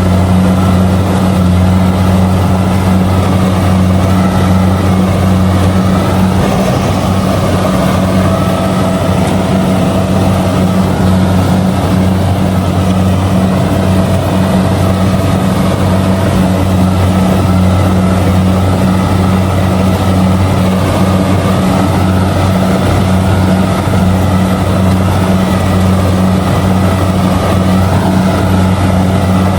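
Kubota DC70G combine harvester running steadily while harvesting rice: a loud, even engine drone with a low hum that holds constant throughout.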